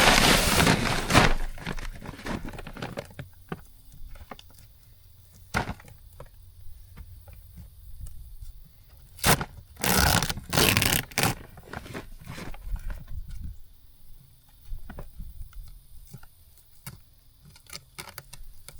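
A large deer-corn sack being handled and worked open, with crinkling, rustling and tearing in short bursts. The loudest bursts come at the start and again about ten to eleven seconds in.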